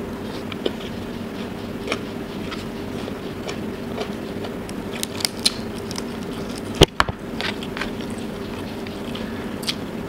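Close-up eating sounds: chewing rice and tiger prawn, with scattered soft mouth clicks over a steady low hum. One loud sharp click about seven seconds in.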